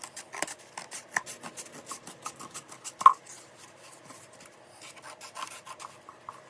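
Scissors cutting through a cardboard egg carton: a quick, uneven run of small scraping snips, with one louder snip about three seconds in.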